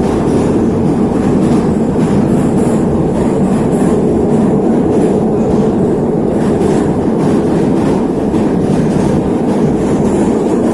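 Neva metro train running at speed through a tunnel, heard inside the car: a steady, loud rumble of wheels on rail and running gear, with faint rail-joint clicks.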